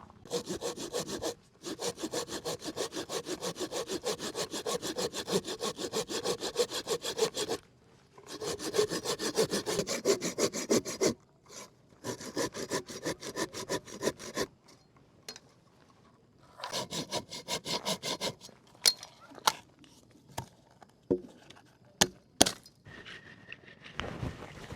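Hand saw cutting wood in several bouts of quick, even back-and-forth strokes with short pauses between them. After the last bout come a few sharp knocks or snaps.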